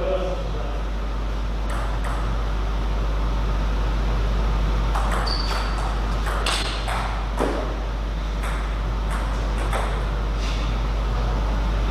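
Table tennis ball clicking off bats and table: sharp, single clicks, scattered at first, then about one a second as a rally runs in the second half, over a steady low hum.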